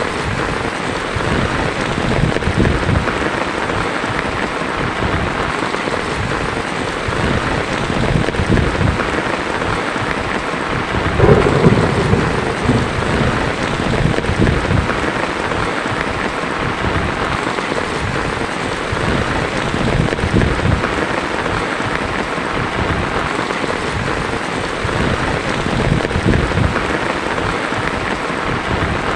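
Heavy rain falling steadily on a tin roof, with a roll of thunder swelling up about eleven seconds in and rumbling for a couple of seconds.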